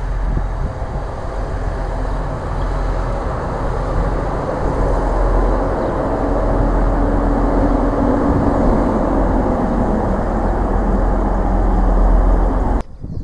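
TransPennine Express Class 185 diesel multiple unit passing and moving away, a steady noise of engine and wheels on rail, with a low engine note that rises and then falls. The sound cuts off abruptly near the end.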